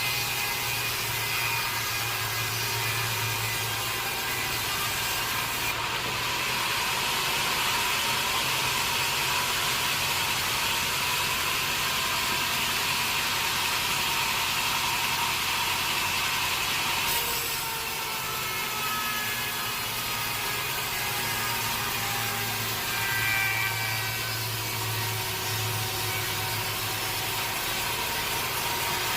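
Sawmill saw cutting through a teak log: a steady, loud hiss of the blade in the wood over the hum of the mill's motor. The sound shifts abruptly about six seconds in and again near seventeen seconds.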